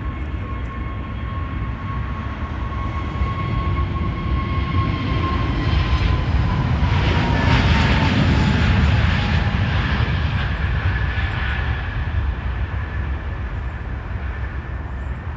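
Jet airliner's engines passing by, swelling to a peak about halfway through and then easing off. A thin turbine whine drops slightly in pitch as the plane goes past.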